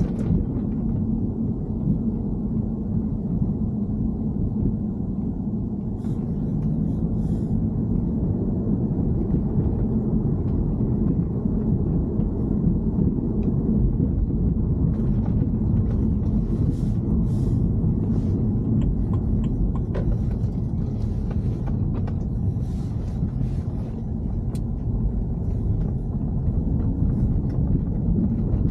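Steady low rumble of a BMW E90 3 Series on the move, with faint scattered ticks and rattles above it.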